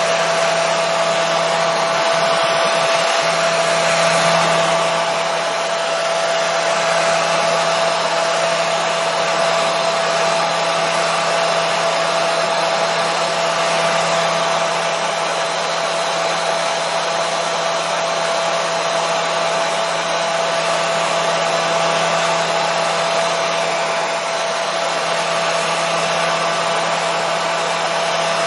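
Hair dryer running continuously at a steady setting: an even rush of blown air with a constant motor whine, used as white noise.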